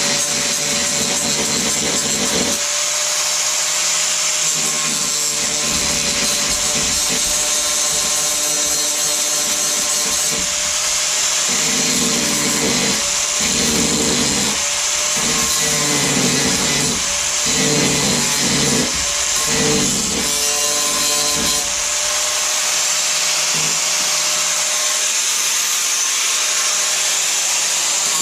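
Angle grinder fitted with a thick, hard grinding wheel, running steadily while grinding down welds on a steel car door repair. A constant motor whine, with a rougher grinding noise that comes and goes in short strokes through the middle as the wheel is worked on and off the metal.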